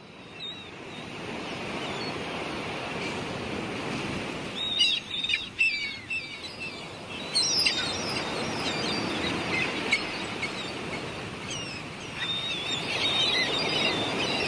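Steady surf fading in, with birds calling over it in short, quick chirps from about four and a half seconds in.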